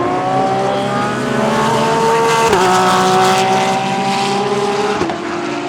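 GT3 race car engine accelerating hard, its pitch climbing steadily, with a quick upshift drop about two and a half seconds in and another near the end.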